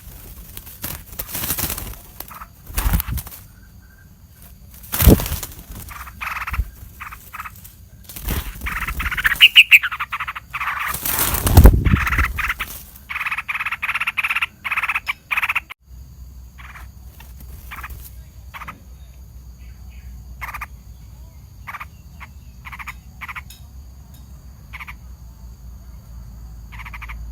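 Short calls of a small animal, repeated in quick runs and then more sparsely, with loud knocks and rustling in the first half.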